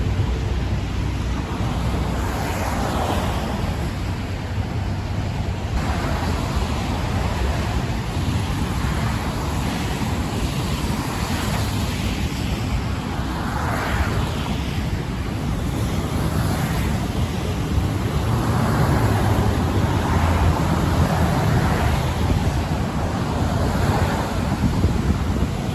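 Storm wind rumbling on the microphone, with road traffic hissing past on a wet, snowy roadway, swelling and fading every few seconds.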